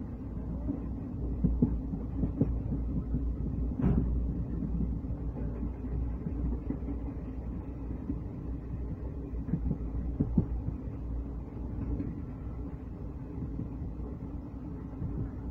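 Steady rumble of a moving passenger train running on the rails, heard from aboard a carriage, with scattered short knocks from the wheels; the sharpest knock comes about four seconds in.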